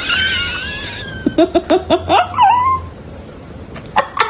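A cat meowing: a long, wavering, high meow, then a quick run of about five short meows and a call that dips and rises. A further burst of short, sharp calls comes near the end.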